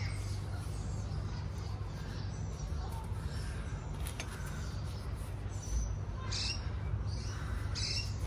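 Short high bird chirps, a couple of times near the end, over a steady low hum.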